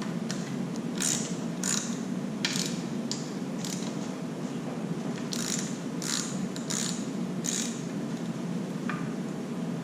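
Ratchet wrench clicking in short strokes as bolts are undone, in two runs of quick pulls with a pause between, over a steady low hum.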